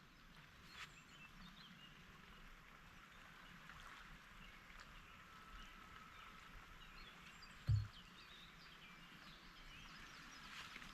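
Faint outdoor ambience: a soft steady hiss with scattered faint bird chirps, and one short dull thump about eight seconds in.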